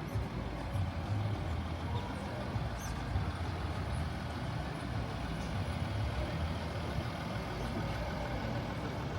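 Steady vehicle engine rumble with road noise, low and unbroken.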